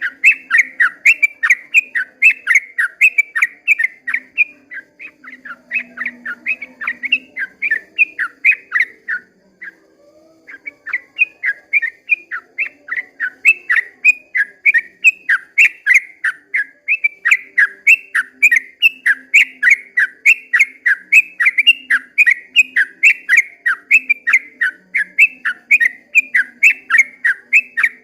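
Yellow-vented bulbul (trucukan) singing its long rapid 'ropel' song: a fast run of short, falling whistled notes, about three or four a second, with a brief break about ten seconds in.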